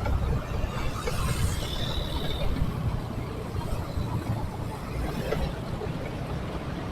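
Road noise from a moving motorcycle in dense city traffic: a steady, flickering low rumble of engine, wind and nearby vehicles. A brief thin high whine sounds about one and a half seconds in.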